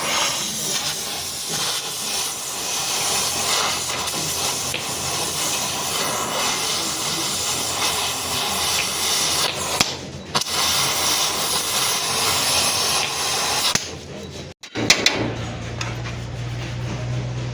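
A loud, steady hiss that stops abruptly twice, then gives way near the end to a steady low hum.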